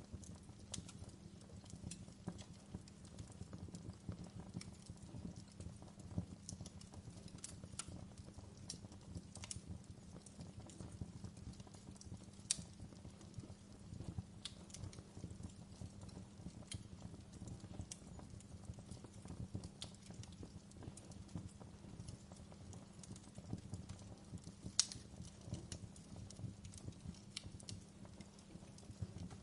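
Wood fire burning in a fireplace: a steady low rumble from the flames with frequent small crackles and pops of the burning wood. Two sharper, louder pops stand out, one about halfway through and one near the end.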